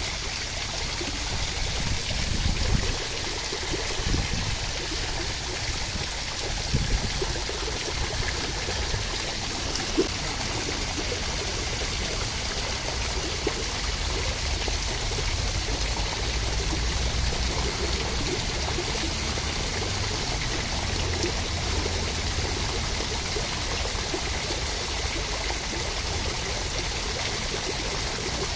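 Steady rushing water, with a deep low rumble under an even hiss and a few small splashes.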